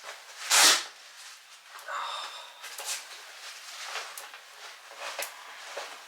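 A short, loud hissing burst about half a second in, followed by scattered light clicks and taps of hand work with small tools and hardware.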